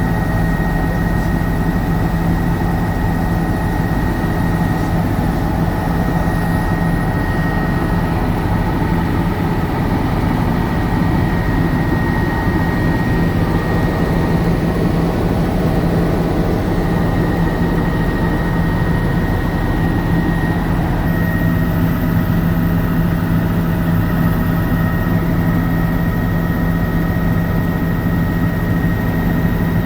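Helicopter engine and rotor noise, a loud steady drone with a thin high whine over it, unchanging throughout.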